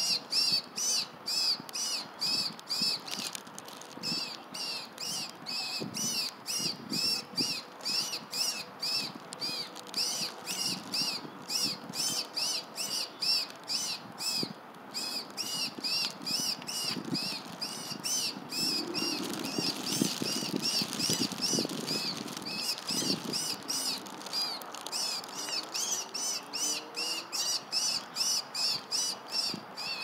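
A bird calling over and over in short, high notes, about three a second without a break. Some low rustling comes in about two-thirds of the way through.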